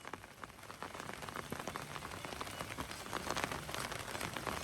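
Heavy rain falling during a tropical storm: a dense hiss of many small drop ticks that grows louder over the few seconds.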